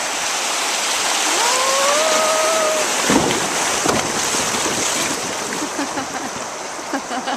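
Rushing river rapids around a canoe, a steady loud wash of water. About a second and a half in, a person lets out one long, rising, wordless yell, and a couple of knocks follow a second or so later.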